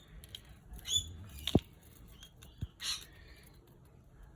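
Crushed turquoise grit shaken and tapped in a metal-mesh tea strainer: scattered small clicks and scratchy rasps, with one sharp tap about a second and a half in.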